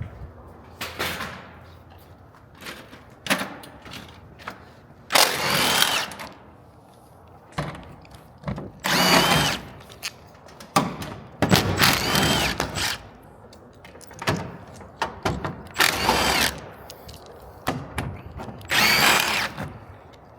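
A power drill running in repeated short bursts of up to about a second, each with a whine that rises and falls in pitch.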